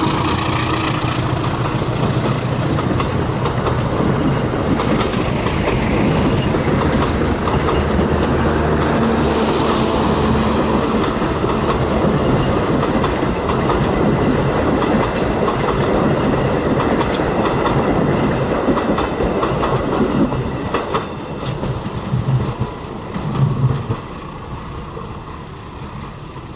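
A train passing close by at speed, its wheels clattering over the rail joints; the sound drops away over the last few seconds with a few sharp knocks as the last cars go by.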